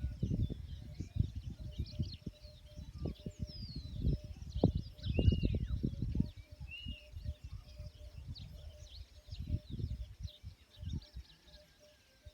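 Several small birds chirping and twittering, with short rising and falling calls, busiest around the middle. Underneath are irregular low rumbles and thumps.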